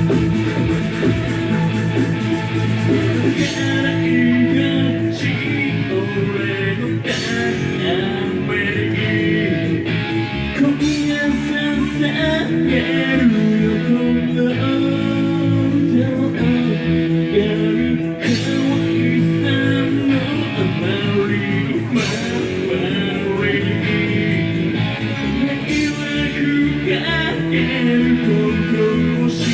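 Loud live rock band playing: electric guitar, bass and drums with steadily repeated cymbal hits, and a vocal coming in about three seconds in.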